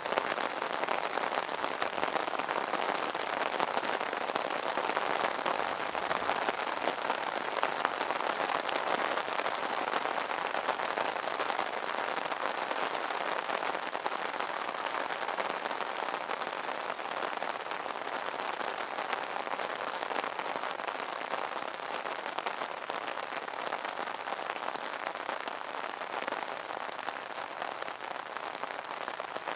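Steady rain pattering on an umbrella canopy: a dense, even patter of drops.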